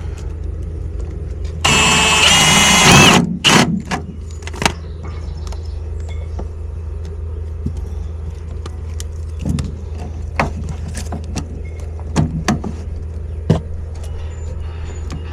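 A cordless drill runs in one loud burst of about a second and a half, about two seconds in, its motor whine dropping as it stops, as it fastens the drain pipe. Scattered clicks and knocks from handling tools and pipe follow over a steady low hum.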